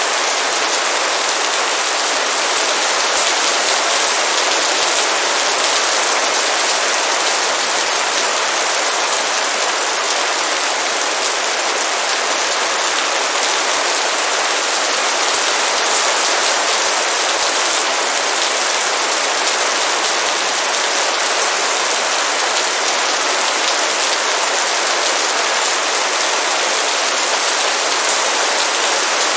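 Heavy rain in a steady downpour: a dense, even hiss of many drops.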